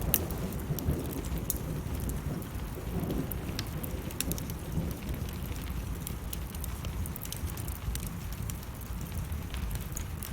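Wood fire crackling with many sharp pops and snaps over steady falling rain, with a low rumble of thunder dying away in the first second or so.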